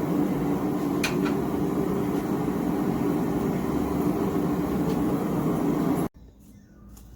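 Small propane gas forge burner running with a steady rushing noise, with a couple of faint metal clicks about a second in. It cuts off abruptly about six seconds in, leaving a quiet room.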